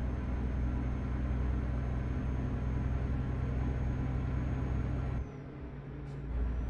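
Truck engine and road noise heard inside the cab, a steady low drone with an engine hum. About five seconds in it cuts off suddenly, a single click follows, and the drone comes back about a second later.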